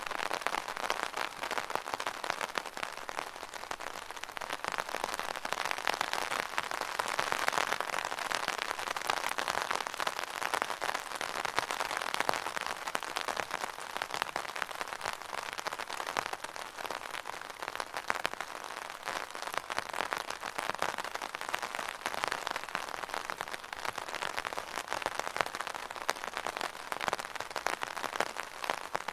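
Rain drumming on an umbrella canopy: a dense, steady patter of many small drop impacts.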